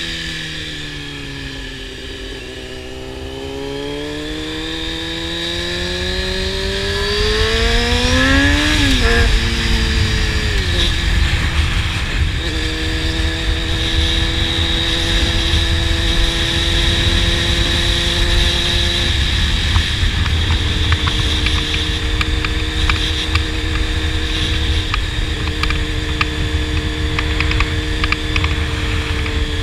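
Honda CBR600-series inline-four sport bike with a slip-on exhaust, heard from the rider's position: the revs sag briefly, then climb steadily for several seconds, drop at an upshift about nine seconds in, and settle into steady cruising with another small drop near twenty seconds. Wind rushes over the microphone throughout.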